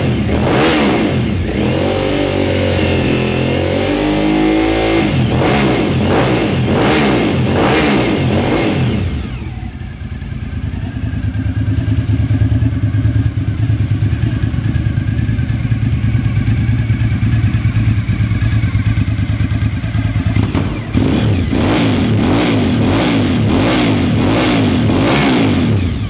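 2000 Suzuki TL1000R's 996 cc V-twin engine running and being revved. For about nine seconds the throttle is blipped repeatedly, with one longer held rev in between. The engine then settles to a steady idle for about ten seconds, and near the end it is blipped several times again.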